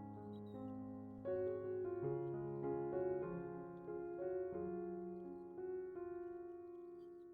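Background piano music: a gentle melody of notes played one after another over held lower notes.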